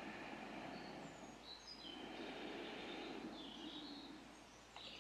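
Faint outdoor garden ambience: a few brief, high bird chirps about a second and a half in and again near the end, over a soft steady background hiss.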